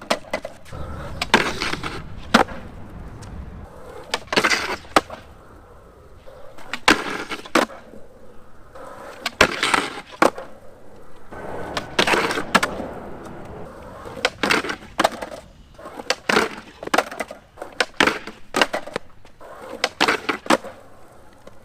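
Skateboard on Avenue suspension trucks sliding on a concrete ledge: repeated sharp clacks of pops and landings, and scraping as the hardened tool-steel spring baseplate drags across the concrete. The baseplate slide is unpredictable, sticking and catching rather than sliding smoothly.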